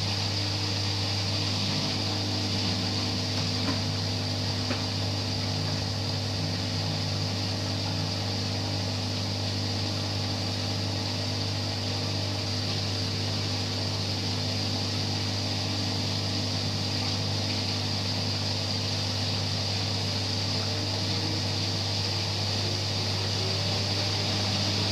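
LG washing machine on its spin cycle at 800 rpm: a steady hum from the spinning drum and motor with an even hiss over it, holding speed.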